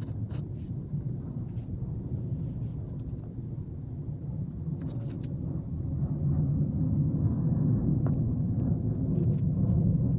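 A low steady rumble that grows louder about six seconds in, with a few faint light clicks over it.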